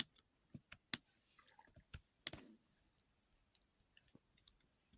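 Near silence with faint, irregular clicks and ticks scattered throughout; the most distinct come about a second and a little over two seconds in.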